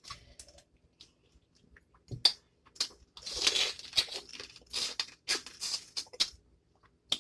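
Close-miked eating noises from a spicy snow crab and crawfish seafood boil. A couple of sharp clicks come about two seconds in, then a string of short, hissy smacking and slurping sounds.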